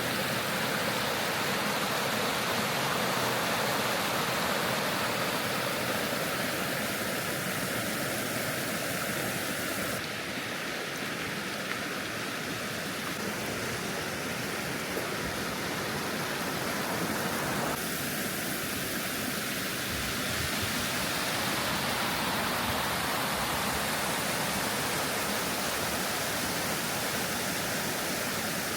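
Waterfall: a loud, steady rush of falling water. Its tone shifts slightly about ten seconds in and again near eighteen seconds.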